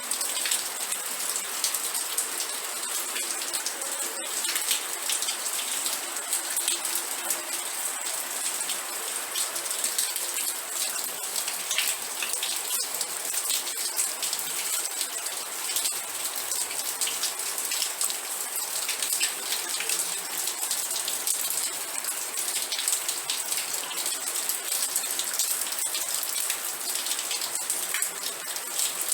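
Steady rain falling, with many sharp individual drop hits over an even hiss.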